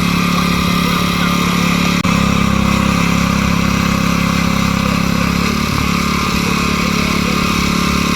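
Small gasoline engine of a garden tiller running steadily. It drops out for an instant about two seconds in, and its pitch steps up slightly about five and a half seconds in.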